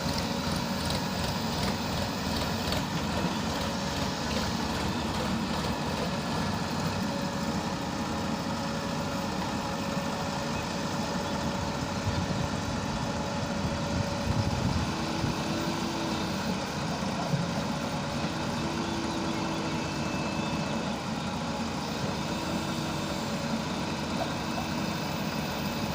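Diesel engine of a JCB 4DX backhoe loader running steadily as it works, with a few brief louder knocks around the middle.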